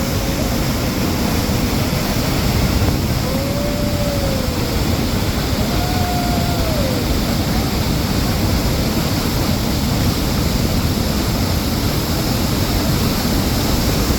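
Steady rushing of water from a natural spring stream. Three faint short tones that rise and fall in pitch come through in the first half.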